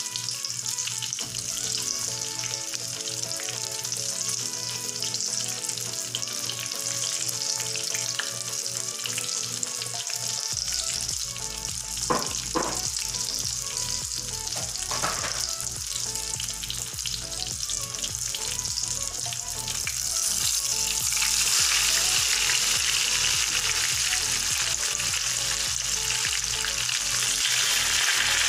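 Egg-coated eggplant omelettes frying in hot oil in a pan, a steady sizzle. The sizzle grows louder about two-thirds of the way in, with an omelette turned over with a wooden spatula and a few short knocks around the middle.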